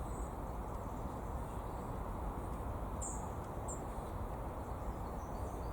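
A few brief, very high bird chirps, scattered and faint, over a steady low outdoor background rumble.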